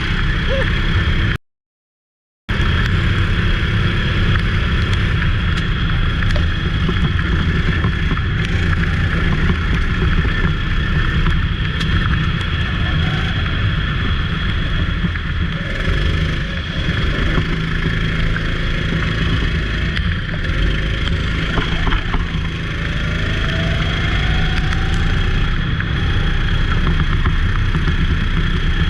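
Go-kart engine running with a steady, continuous drone. The sound cuts out completely for about a second near the start.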